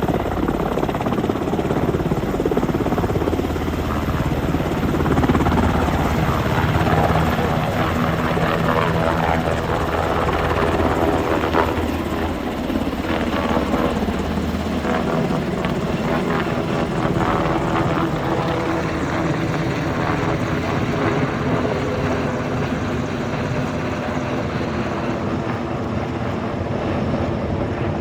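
Sikorsky UH-60 Black Hawk helicopter running, a loud continuous rotor and twin-turbine engine sound.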